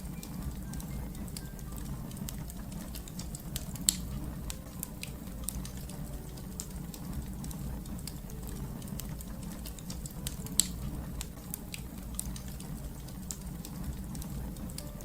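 Wood fire crackling: scattered sharp pops and snaps over a steady low rumble, with two louder pops, one about four seconds in and another about ten seconds in.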